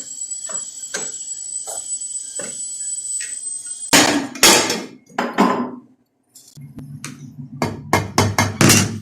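Repeated hammer blows, a little under a second apart, with heavier strikes about halfway through. A steady low hum runs under the last few blows.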